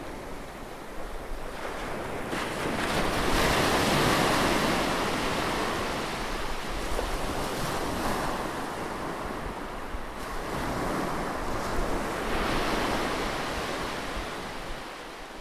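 Sea waves breaking close by and washing up the shore, rising and falling in several swells, the loudest about four seconds in.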